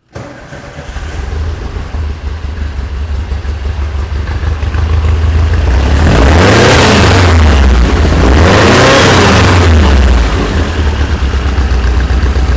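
1973 VW Super Beetle's 1900 cc air-cooled flat-four on twin EMPI 40 IDF carburettors catches and runs from cold, is revved up and back down twice about six and nine seconds in, then settles back to a steady idle.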